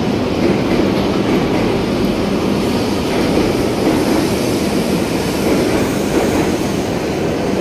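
Shinkansen bullet train at the platform, a steady loud rumble.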